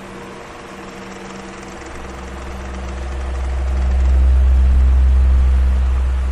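Electric fan running with a steady whirring hum. A deep rumble of moving air hitting the microphone swells from about two seconds in, is loudest in the middle, and fades near the end.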